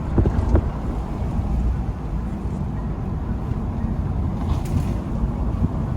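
Car driving along a road: steady low road and engine rumble heard from inside the vehicle.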